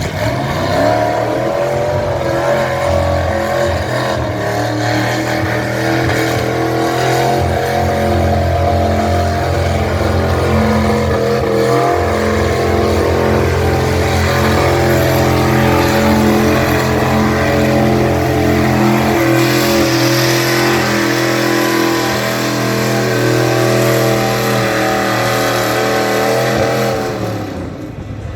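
1969 Ford F100 pickup's engine pulling under heavy load at a tractor pull. It revs up in the first second, holds high, nearly steady revs for most of the run, then drops off near the end.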